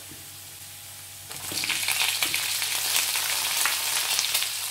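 Oil sizzling in a hot wok with garlic, ginger and cashews, faint at first. About a second in, it jumps to a much louder, steady sizzle full of crackles as cooked chicken pieces go into the hot oil.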